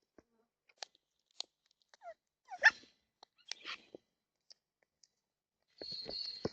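Birds feeding at a seed feeder: scattered clicks and crunches of beaks on seed and tray, with a short squawk about two and a half seconds in. A burst of wing flapping starts near the end.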